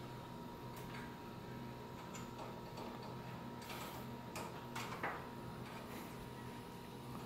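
A few faint, irregular metallic clicks and taps from the garage door's torsion spring hardware and steel winding rods as the spring is wound, over a steady low hum.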